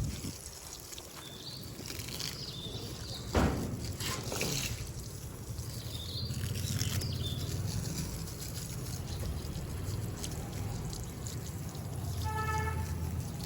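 Water pouring and trickling from a garden hose onto plants and soil, with a sharp knock about three and a half seconds in and a short pitched call near the end.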